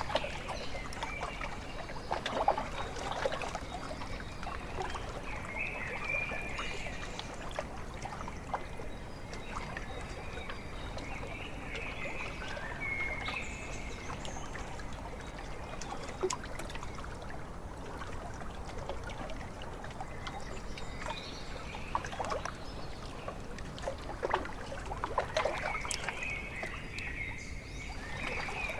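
Small waves lapping and trickling at a lake shore, with scattered little splashes. Birds give a few short calls now and then.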